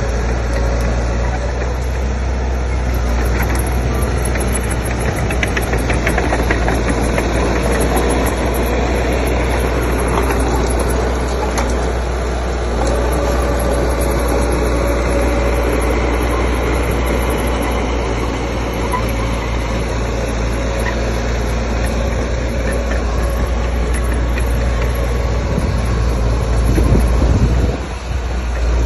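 Diesel engine of heavy earthmoving machinery running steadily, swelling briefly and then dipping near the end.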